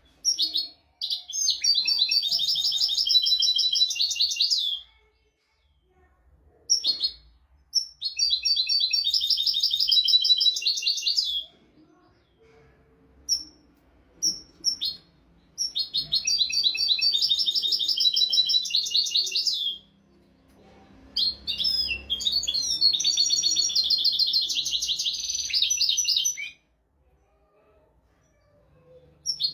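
European goldfinch singing: four long phrases of rapid twittering notes, each lasting about four to five seconds, separated by short pauses with a few single call notes between them.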